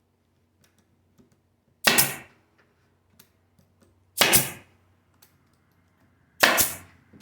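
Staple gun firing three times, about two seconds apart, driving staples through hardware cloth into a wooden hive bottom board; faint handling clicks between shots.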